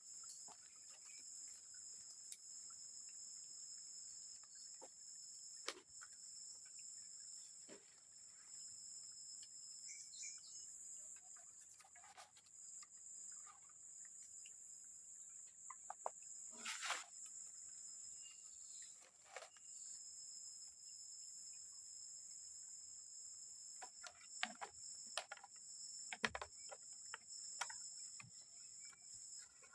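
Steady high-pitched drone of forest insects, with scattered knocks and clicks throughout.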